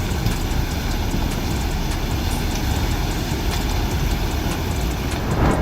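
Flood surge of water and debris rushing down a river bed after heavy rain: a steady, heavy rumble with many small sharp clicks running through it, swelling briefly near the end.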